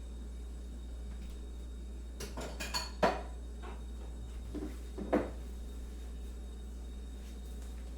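Cutlery and crockery clinking: a quick run of clinks ending in a ringing tap about three seconds in, then two duller knocks around five seconds, over a steady low hum.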